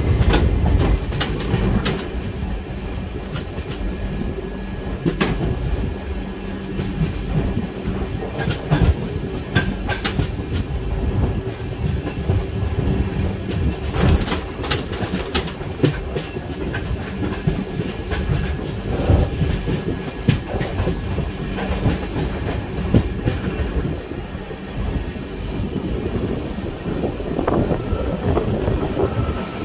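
Passenger train coaches running, heard from on board: a steady rumble with wheels clicking and knocking over rail joints, and a brief burst of hiss about halfway through.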